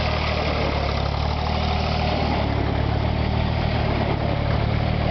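SAME Tiger 60 4x4 tractor's diesel engine idling steadily.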